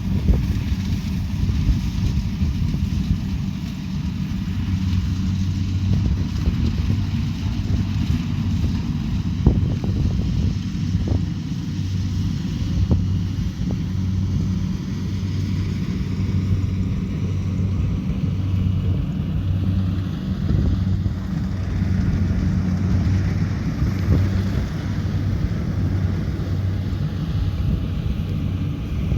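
Kubota DC70 Pro combine harvester's diesel engine running steadily as it harvests rice, a low, evenly pulsing hum with mechanical rattle and a few short knocks.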